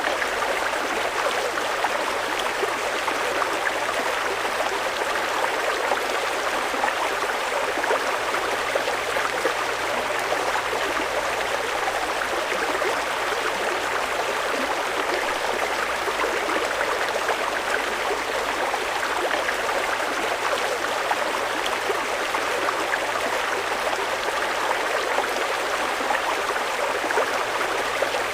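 Fast-flowing river rushing steadily, with a dense, even splashing and gurgling over rocks.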